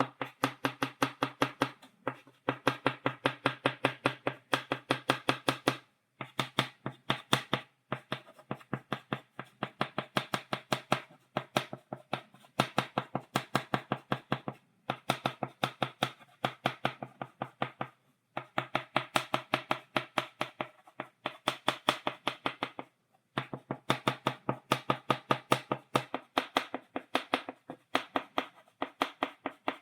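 Stick of chalk tapped rapidly on a blackboard to stipple dots, sharp clicking taps several a second in runs of a few seconds with short pauses between.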